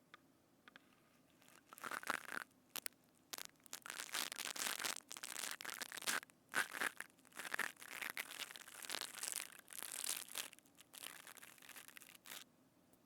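Crackly, crunching handling sounds very close to a binaural microphone, in uneven bursts that start after a short quiet moment and stop just before the end.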